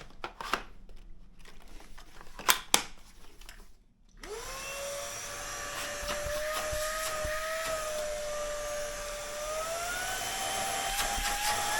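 Two sharp clicks, then about four seconds in the ROIDMI X200 Jet cordless stick vacuum's motor starts and spins up to a steady high whine. Near the end the whine rises in pitch twice as the power is stepped up towards max suction.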